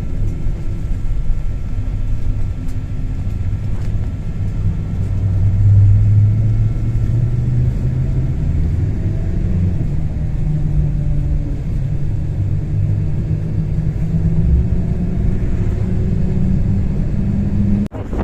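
Strong blizzard wind buffeting the microphone: a loud, continuous low rumble that swells about six seconds in.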